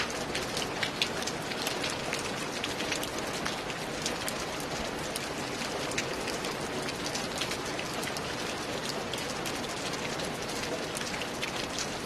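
Steady rain on a roof: a dense, even hiss of rainfall with many sharp ticks from individual drops striking the surface.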